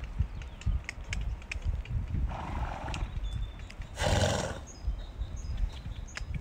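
Horses at a paddock fence making two short breathy noises, one about two seconds in and a louder one about four seconds in, over an uneven low rumble.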